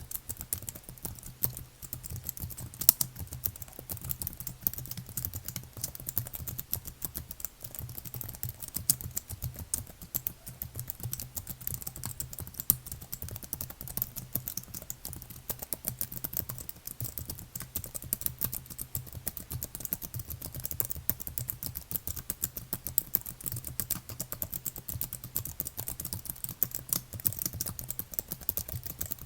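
Computer keyboard being typed on continuously, a rapid, fairly even stream of key clicks with a few louder strokes, over a faint steady low hum.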